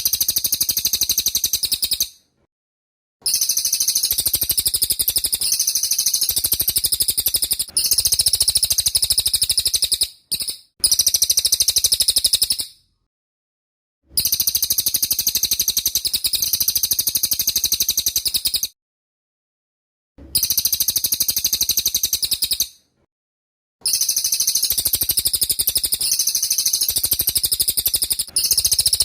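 Cililin songbird singing loud, high-pitched, rapid-fire trilled phrases, each a few seconds long, with short pauses between them.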